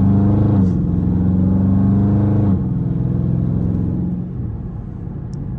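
Dodge Charger Scat Pack's 392 HEMI V8 pulling under throttle, heard from inside the cabin: the engine note climbs slightly and holds, then drops away about two and a half seconds in as the throttle eases, and grows quieter near the end.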